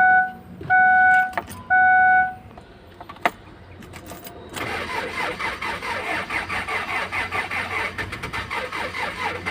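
Three short steady beeps in the first two seconds. Then, from about four and a half seconds in, the Kia Sorento's D4CB diesel engine cranks on the starter with a fast, even rhythm without catching, after a fuel injector replacement and bleeding of the fuel system.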